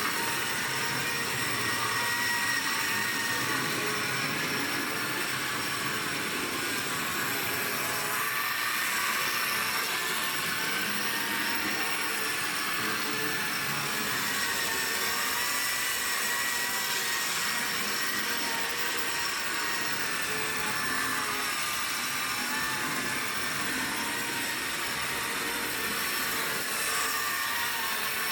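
A COX HO-gauge electric locomotive running on its track: a small electric motor whirring steadily, with the wheels rolling on the rails.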